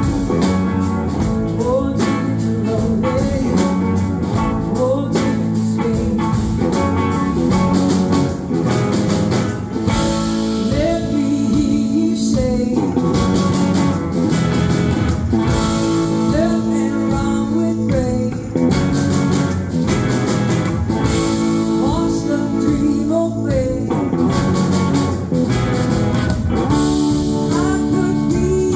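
A live blues-rock band playing: electric guitar lines with sliding, bending notes over steady drums and bass.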